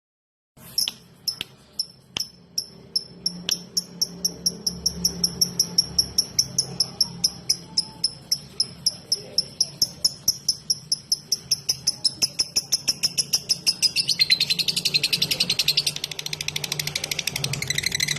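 Lovebird 'ngetik' call, the rapid typing-like ticking chatter: single sharp high chirps begin about half a second in, repeat faster and faster, and run together into a fast continuous chatter about three-quarters of the way through.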